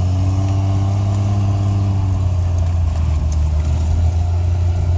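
AMC Eagle's engine running at steady revs under load while the car slides round in a snow donut, heard from inside the cabin.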